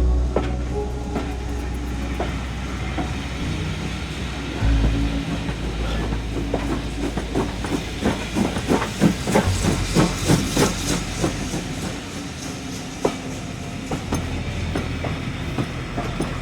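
A heritage railway train running past with a steady low rumble, its wheels clicking in a quick rhythm that is busiest and loudest about halfway through.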